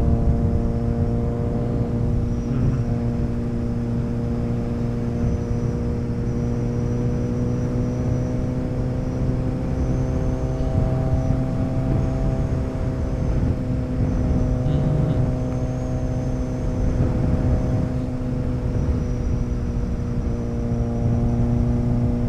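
Motorcycle engine running at a steady cruise, its pitch rising and falling only slightly, with wind rushing over the microphone.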